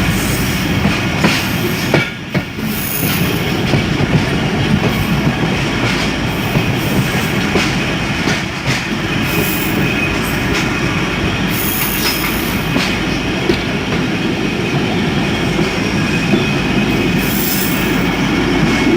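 Passenger train running on the track, heard from on board: a steady loud rumble of coach wheels and running gear, with brief high-pitched wheel squeals coming and going several times.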